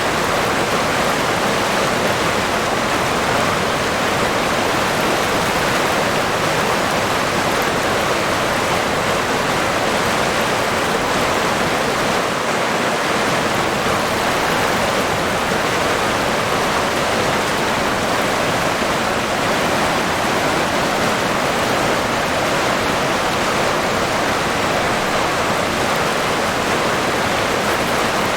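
River water flowing and rushing over rocks: a steady, even splashing.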